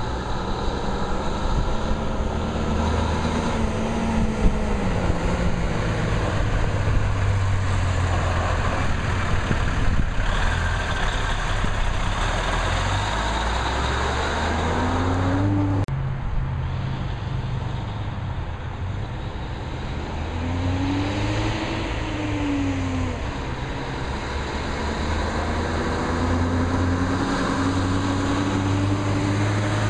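Diesel engine of an M817 5-ton 6x6 military truck running as the truck is driven, its pitch rising and falling several times, with a sudden break about halfway through.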